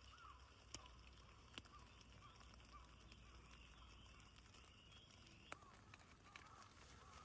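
Faint outdoor ambience with birds calling in short repeated chirps, and a few sharp clicks.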